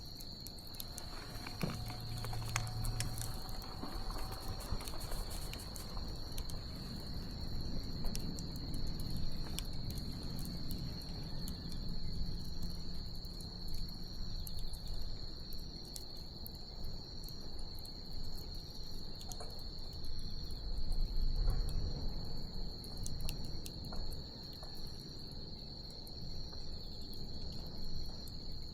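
Wood bonfire crackling with scattered small pops, under a steady high-pitched trill of insects that never lets up.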